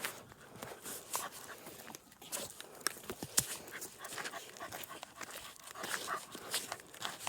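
A dog panting, with short sharp clicks and scuffs scattered through.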